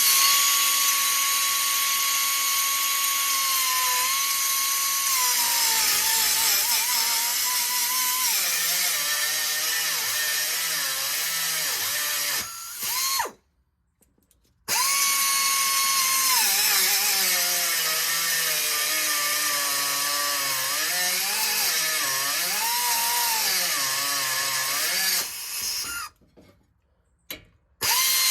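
Power cutting tool cutting through a truck's exhaust pipe: a steady motor whine whose pitch sags and wavers as it bites into the metal under load. It stops briefly about halfway through, and again near the end before starting up once more.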